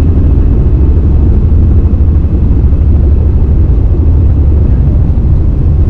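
Helicopter running: a loud, steady low drone of rotor and engine with a rapid, even pulsing, heard close up from the aircraft.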